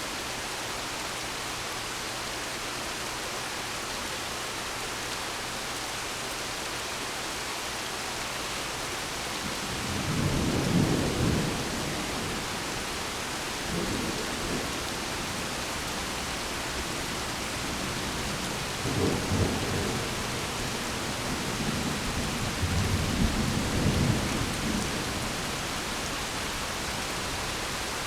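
Steady rain hissing, with low rumbles of thunder: a first one about ten seconds in, a weaker one a few seconds later, another near the two-thirds mark, and a longer rolling rumble toward the end.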